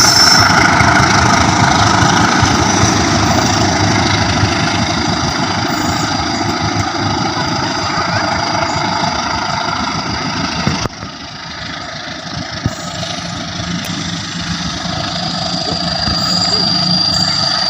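Diesel locomotive engine running steadily. It eases off gradually, drops suddenly about eleven seconds in, then builds again toward the end, with a high whine near the end.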